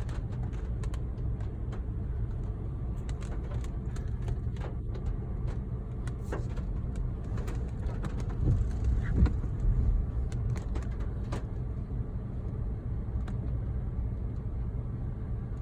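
Inside a car's cabin while driving slowly: a steady low rumble of engine and tyres, with scattered light ticks throughout and a brief swell in the rumble about halfway through.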